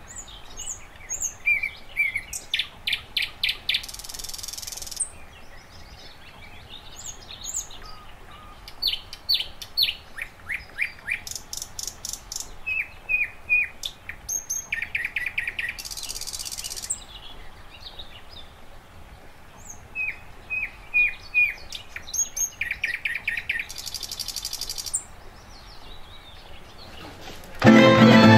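Birds chirping and singing in short repeated phrases of quick falling notes and buzzy trills, over a faint steady background hiss. Near the end a tamburica band with fiddles and double bass starts playing.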